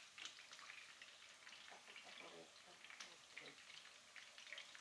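Green chilli peppers frying in a pan: a faint sizzle with scattered small crackles and pops.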